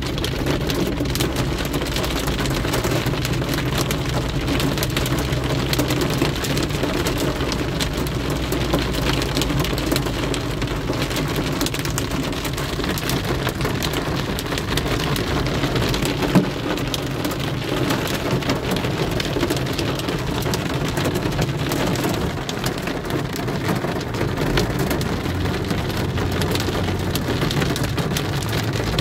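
Heavy rain pelting a car's roof and windscreen, heard from inside the car as a dense, steady patter of drops over a low, steady rumble from the car.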